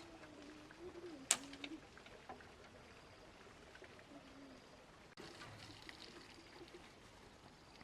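A bird's low, wavering call for the first second and a half, and a shorter one about four seconds in, faint against the farmyard background. A single sharp click about 1.3 s in is the loudest sound.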